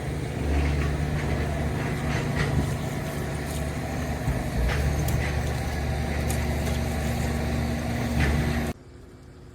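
An engine running steadily with a low hum and a few light clicks over it, cutting off abruptly near the end.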